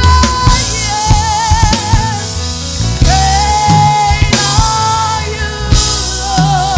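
Live worship band playing, with a drum kit keeping time and a voice holding long notes with vibrato over the band.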